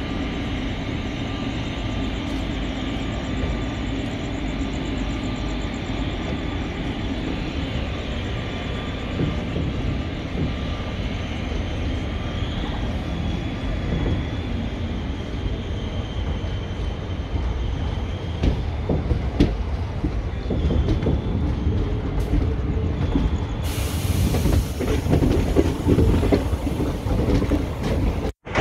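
ICF passenger coach running on the track as the train pulls out of a station and gathers speed: a steady low rumble of wheels on rails. Sharp clanks and knocks grow more frequent in the last third, and a high rushing hiss joins near the end as the coach runs close alongside another train.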